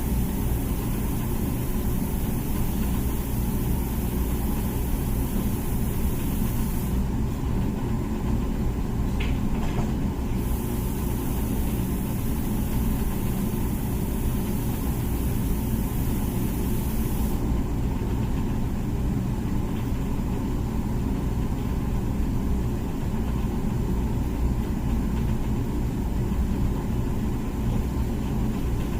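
Comfee dishwasher running mid-cycle: a steady motor hum with a high hiss above it that drops out about seven seconds in, comes back a few seconds later, and drops out again past the middle.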